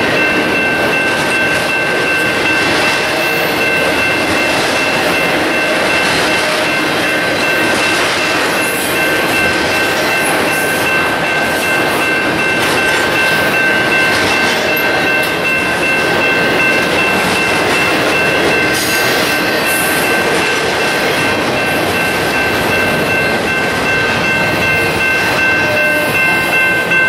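Double-stack container freight train rolling past with a steady clatter and rumble of wheels on rail. Three steady high ringing tones run through it, most likely the grade-crossing warning bell, and the last car goes by near the end.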